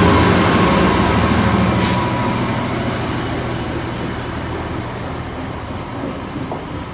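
Class 66 diesel-electric locomotive's EMD two-stroke V12 working hard under load as it hauls a heavy freight train away, its engine note fading as it passes. There is a brief hiss about two seconds in.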